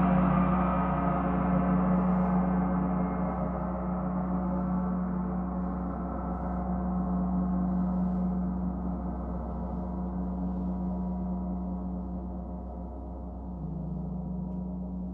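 A gong ringing in a long, dense wash of overtones. It swells gently a few times while slowly dying away, with the highest overtones fading first.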